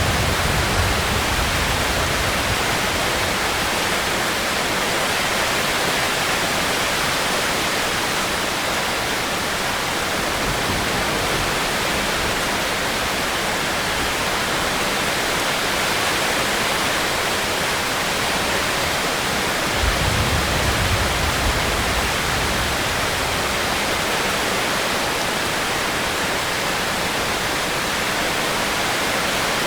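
Steady heavy rain, an even hiss with no break, with a few short low rumbles under it, the plainest about twenty seconds in.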